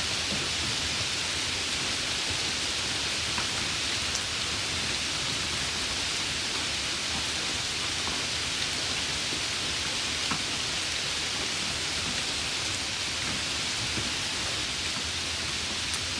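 Steady rain falling, a continuous even hiss with a few scattered sharper drop ticks standing out.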